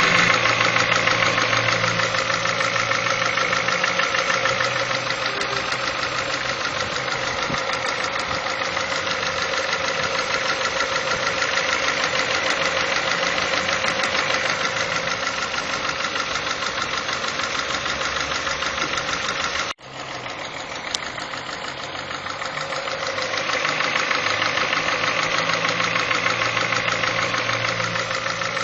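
Petrol car engine idling with a rapid, even ticking clatter, a noise not normal for the engine. The sound cuts out briefly about twenty seconds in, then carries on.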